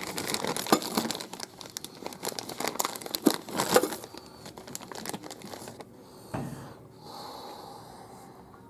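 Crinkling and rustling of packaging being handled, with small clicks, for about the first four seconds, then quieter handling and a single knock about six seconds in.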